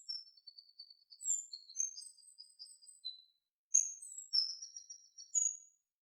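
A small songbird singing high, varied, whistled phrases: one phrase of about three seconds, a short pause, then a second phrase of about two seconds.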